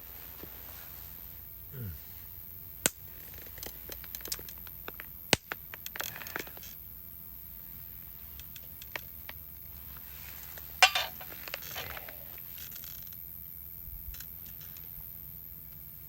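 Scattered clinks, taps and knocks of cooking gear and utensils being handled, with a louder clatter about eleven seconds in.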